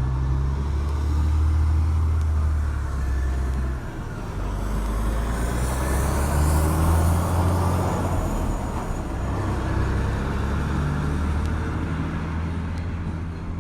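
A heavy engine running steadily, its low hum stepping in pitch now and then, with a hiss that swells and fades in the middle.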